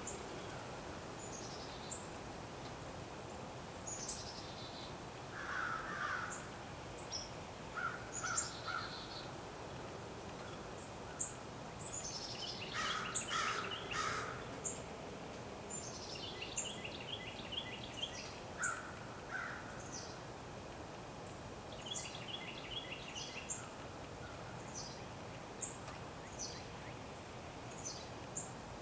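Wild birds calling in a winter outdoor ambience: many short, high, falling chirps scattered throughout, a few harsher calls, the longest and loudest about twelve to fourteen seconds in, and two rapid trills. A steady faint hush lies underneath.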